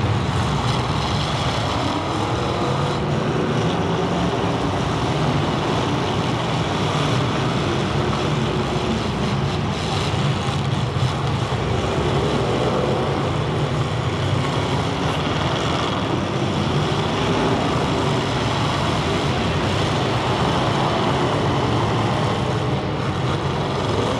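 Several demolition derby car engines revving hard, their pitch rising and falling over and over as the cars shove against one another under load.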